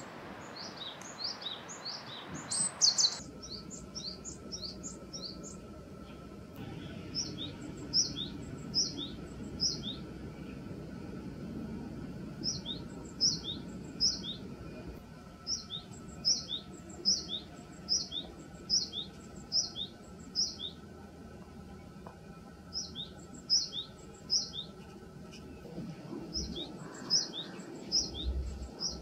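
A small songbird singing short phrases, each a run of repeated two-note units, a higher note then a lower one, about two a second. The phrases come again and again with short pauses between them, over a faint steady background hum.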